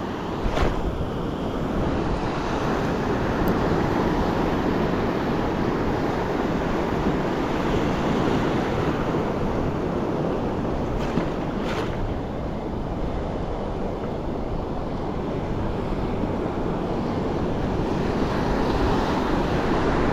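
Ocean surf breaking and washing up a sandy beach in a steady rush, swelling a few seconds in and again near the end, with wind buffeting the microphone. A brief knock about half a second in.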